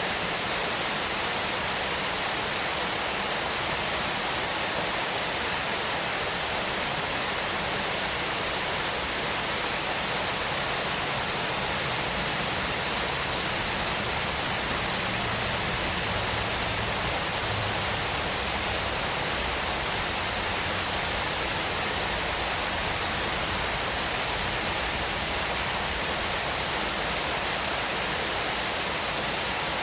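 Waterfall, water pouring and splashing in a steady, even rush with no breaks.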